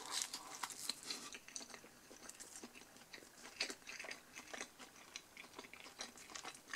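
A person chewing a mouthful of Pizza Hut cheese pan pizza with its soft crust: faint, irregular mouth clicks and smacks.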